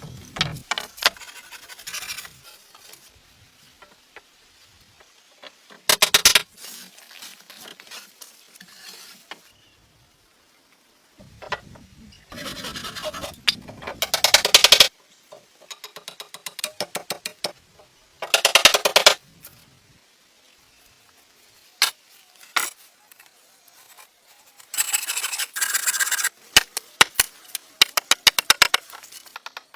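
Bursts of rough scraping or rasping strokes, each lasting a second or two, with sharp taps and clicks in between.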